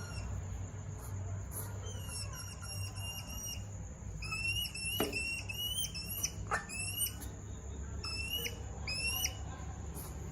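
African pygmy hedgehogs mating: runs of short, high, bird-like chirps, each gliding up then hooking down, several in quick succession, with two sharp clicks near the middle. A steady low hum runs beneath.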